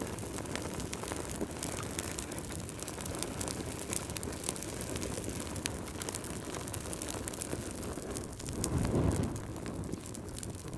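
Fire in a fireplace crackling, with frequent sharp pops over a steady low rumble of flame. The rumble swells briefly near the end.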